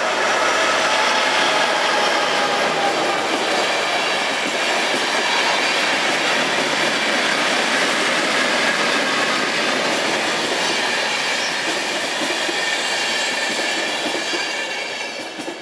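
Passenger train hauled by HŽ 1142-series electric locomotives passing close by at speed: a steady rumble and clatter of wheels on rail, with faint whining tones in it. The sound fades near the end as the last coaches go by.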